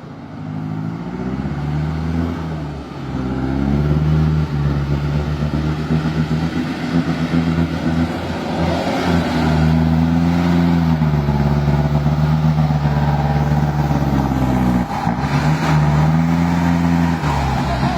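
Forland truck engine running under load, its pitch rising and falling several times as it revs up and drops back.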